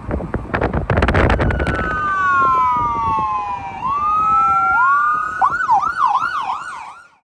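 Emergency vehicle siren: two tones falling slowly together and rising again, then switching to a fast warbling yelp of about five cycles a second, cut off abruptly. A burst of clattering knocks comes first.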